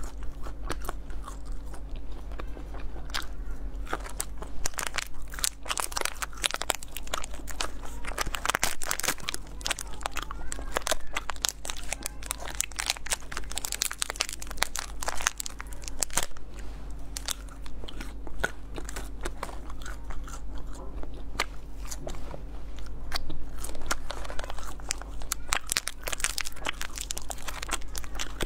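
Close-up crunching and chewing of almond-filled dried milk candies (nai dou), a dense run of irregular crackly clicks, with plastic candy wrappers crinkling as they are unwrapped. A steady low hum sits underneath.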